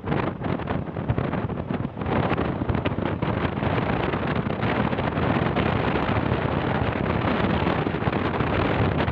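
Steady wind noise buffeting the microphone over the running of a moving vehicle.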